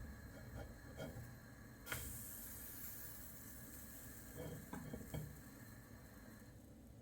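Faint sizzling in a frying pan that starts suddenly with a click about two seconds in and dies away near the end, with a few light clinks of utensils.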